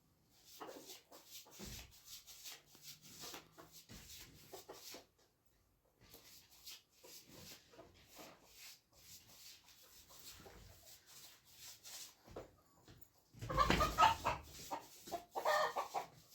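Chickens clucking, with a louder burst of cackling about three-quarters of the way through, over a run of soft scraping strokes.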